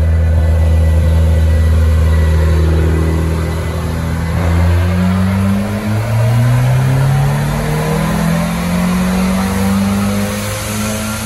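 Volvo 240 Turbo's B21FT turbocharged four-cylinder running on a chassis dyno through a 2.5-inch stainless exhaust with a Cherry Bomb muffler. It holds a steady speed at first, then from about four seconds in the revs climb slowly and level off near the end.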